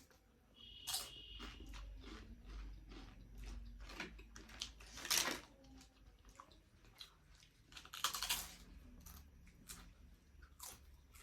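Close-miked chewing and eating of instant noodles and chicken momo: wet mouth noises with a series of short, sharp crunchy clicks, the loudest about five seconds in and again around eight seconds.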